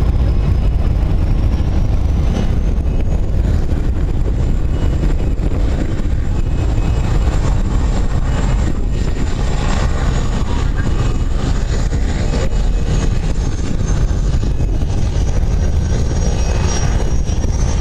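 Boeing 757 jet engines at takeoff power: a loud, steady rumble with a thin high whine that rises slightly a few seconds in and drops near the end.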